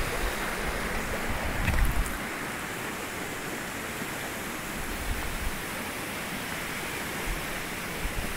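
Steady rush of a waterfall, with a brief low rumble on the microphone about two seconds in.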